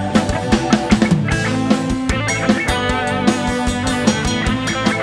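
A band playing an instrumental passage between sung lines: guitar over a steady drum-kit beat.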